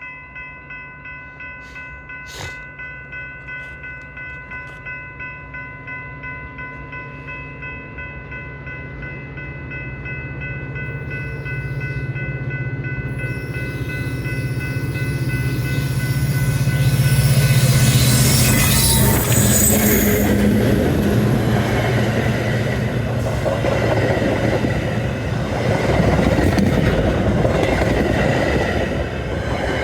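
Railroad crossing bell ringing about twice a second as a train approaches. The train's rumble and wheel noise build steadily, become loudest when it passes about 17 seconds in, and stay loud as the cars roll by.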